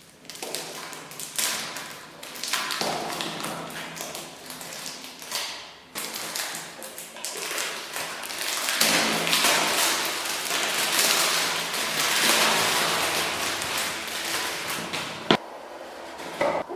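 Perfume box and packaging being handled in an unboxing. First comes a run of taps and light knocks, then several seconds of rustling and scraping, and a single sharp click near the end.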